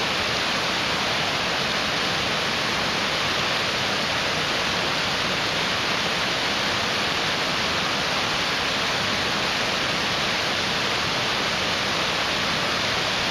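Mountain stream rushing: a steady, unbroken hiss of water with no change in level.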